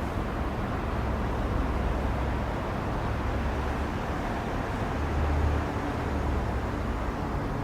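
Jet aircraft engines, a steady low rumble with a faint hum over it.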